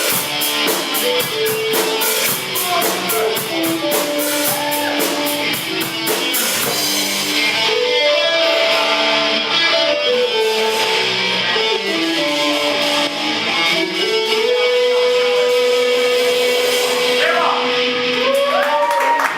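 Live rock band playing an instrumental passage, with electric guitar over drums. A steady cymbal beat stops about six or seven seconds in, leaving guitar notes, and there is one long held note near the end.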